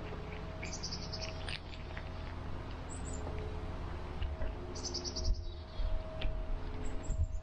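Small birds chirping: two quick trills of high notes, about a second in and about five seconds in, with single chirps between, over a steady low rumble. A cat chewing rotisserie chicken adds soft clicks, with heavier thumps in the last couple of seconds.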